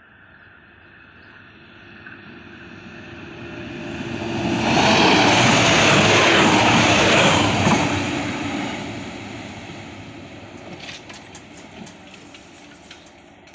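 A DB Regio diesel multiple unit passes by without stopping. It comes up loud over a few seconds, is loudest for a couple of seconds around the middle, then fades as it draws away. A few sharp clicks come near the end.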